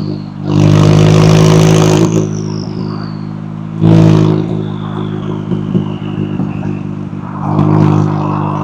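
McLaren 570S twin-turbo V8 engine and exhaust, loud under throttle in bursts: one held for about a second and a half, a short blip around four seconds in, and another near the end, with quieter running between. As the first burst cuts off, a high whistle falls away in pitch.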